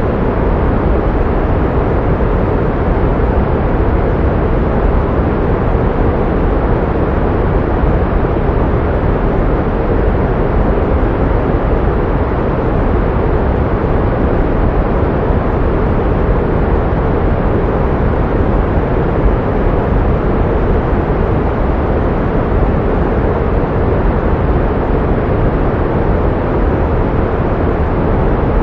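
Pink noise: a steady, even hiss with more weight in the low and middle range than white noise, unchanging throughout.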